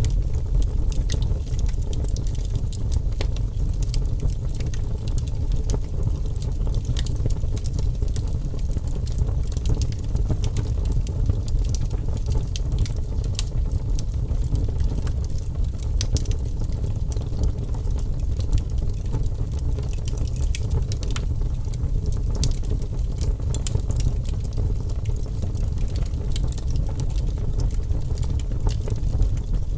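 Wood fire in a fireplace crackling, with frequent small irregular pops and snaps over a steady low rumble of the flames.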